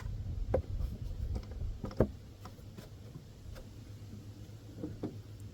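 Scattered light clicks and knocks of the plastic engine cover being lined up and pressed down onto its tabs and grommets, the sharpest knock about two seconds in.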